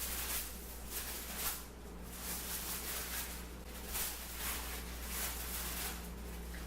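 Hands squishing and rustling in a sticky marshmallow and Rice Krispies mixture, a string of irregular soft rustles over a steady low hum.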